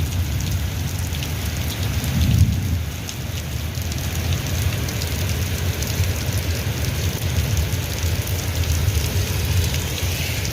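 Heavy rain falling steadily, with a constant low rumble beneath it that swells briefly about two seconds in.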